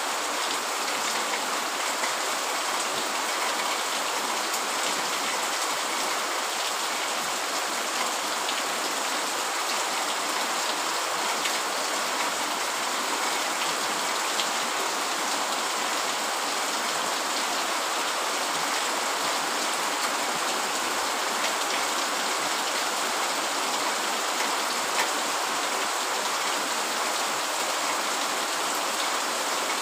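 Steady rain falling, an even hiss with occasional faint ticks of drops.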